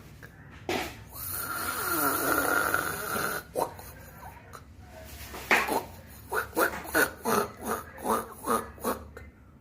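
A snoring sound: one long rasping breath about a second in, then a quick run of short rhythmic pulses, about three a second, in the second half.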